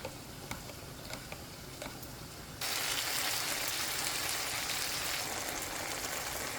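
Chicken pieces frying in a pan: faint scattered crackling, then about two and a half seconds in a sudden, much louder steady sizzle.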